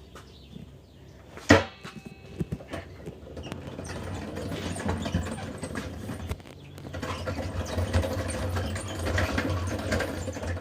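A sharp knock about a second and a half in, then a minibike's small engine running with a fast rattling beat that grows louder over the next few seconds.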